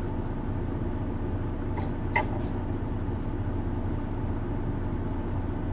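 Isuzu Erga city bus heard from inside the passenger cabin, its diesel engine running with a steady low drone. A few brief clicks or rattles come about two seconds in.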